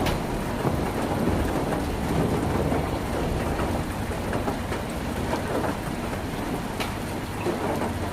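Heavy rain pattering on a tin roof: a dense, steady crackle of drops with a few sharper single drop ticks and a low rumble underneath.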